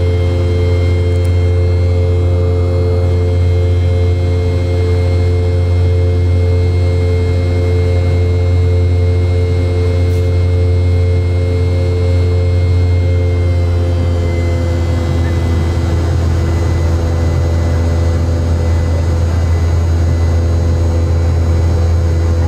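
Rolls-Royce BR715 turbofan on a Boeing 717's rear fuselage, heard loud from the cabin seat beside it at takeoff power: a deep steady rumble under several steady whining tones. About two-thirds of the way through, the whine tones shift slightly in pitch as the engine setting changes.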